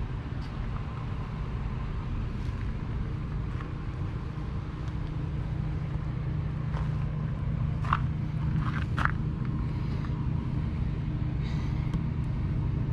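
A steady low engine hum, with a few brief faint high sounds about eight and nine seconds in.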